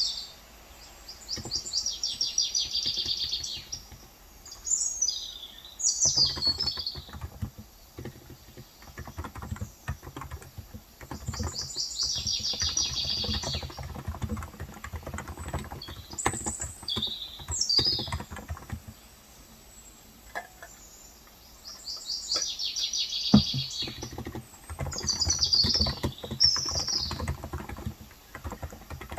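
Typing on a Cox Endeavor 35 g electrocapacitive (Topre-style) keyboard in bursts of rapid key clacks, with short pauses. Small birds chirp in repeated high trills over the typing.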